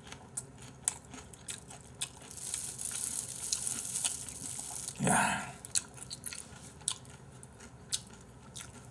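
Crispy fried chicken bitten and chewed close to the microphone, with many small crunches and crackles, mixed with the crinkle of disposable plastic gloves handling the pieces.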